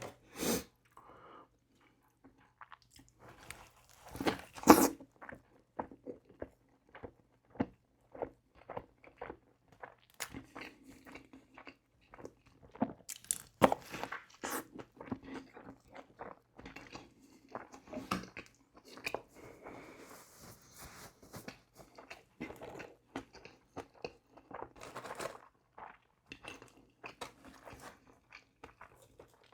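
Close-miked eating of McDonald's fast food: irregular crunchy bites and chewing throughout, the loudest bites about four and a half seconds in.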